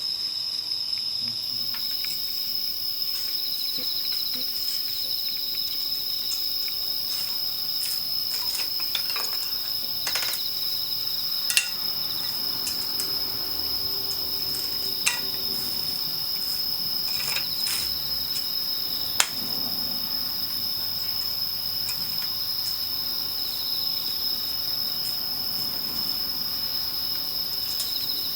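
Insects chirring in a steady high drone, over the crackle of a wood campfire with a few sharper pops about a third and two thirds of the way in.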